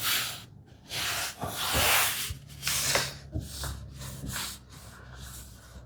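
Hands rubbing and smoothing fabric onto glued wooden tambour slats to press out air bubbles: a series of irregular swishing strokes, louder in the first three seconds and softer after.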